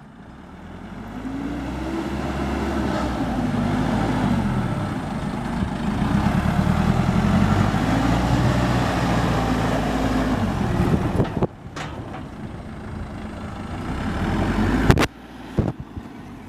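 Cat 426C backhoe loader's turbocharged diesel engine running and revving up and back down twice. It cuts off abruptly with a sharp knock a little past the middle, builds again, and cuts off with another knock near the end.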